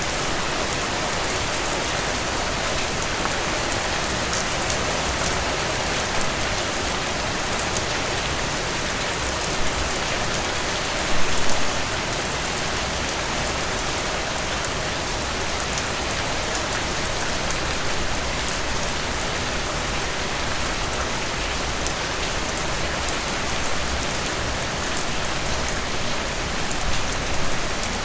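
Steady rainfall hitting surfaces, an even hiss of drops with fine pattering, with a few brief louder spatters about eleven seconds in and again near the end.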